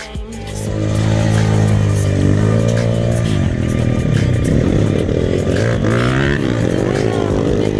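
Pit bike engine at high revs, its pitch repeatedly climbing and dropping as it accelerates and shifts, getting louder over the first second.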